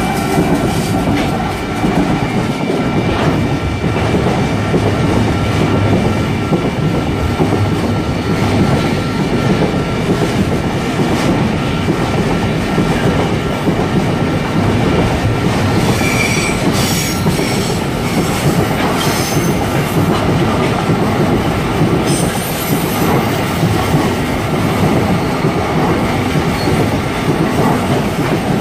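Locomotive-hauled train passing close by, a loud, steady rumble of wheels on rail with clickety-clack, and brief high wheel squeal a little past the middle.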